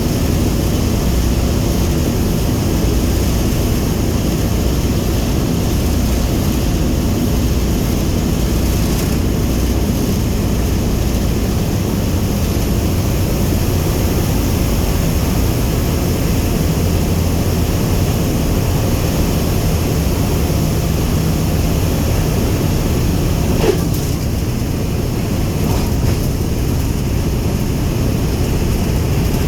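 The four Wright R-1820 Cyclone nine-cylinder radial engines of a B-17G Flying Fortress running steadily, with a deep, even propeller drone. A brief short chirp is heard about 24 seconds in.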